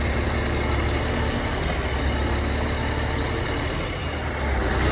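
Crane engine running steadily just after being started, with a deep, even hum; it grows a little louder near the end.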